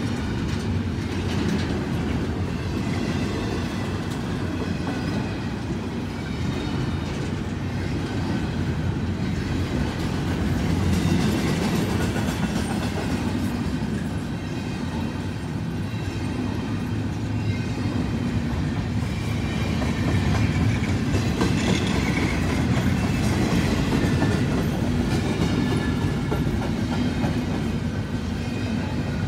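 Freight train of intermodal well cars, some carrying double-stacked containers, rolling past: steady wheel-on-rail noise, growing a little louder about eleven seconds in and again from about twenty seconds.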